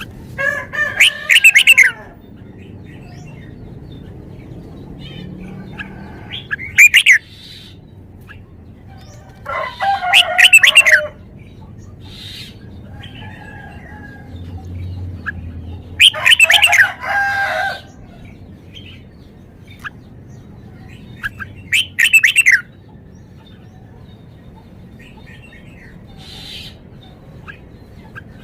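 Caged red-whiskered bulbul singing: five short, loud phrases of quick sweeping notes, one about every five to six seconds.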